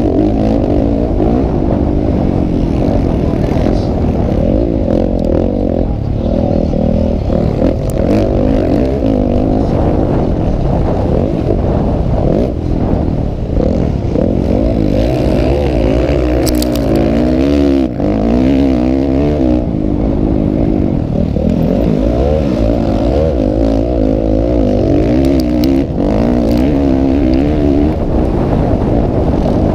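Motocross dirt bike engines racing, their pitch rising and falling over and over as the riders open and close the throttle.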